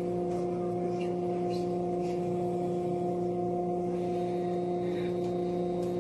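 Steady machine hum holding one unchanging pitch, with a few faint ticks over it.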